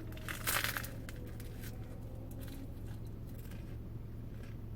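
Eating a banh mi: a brief crunchy crackle about half a second in, then faint chewing clicks over a steady low hum.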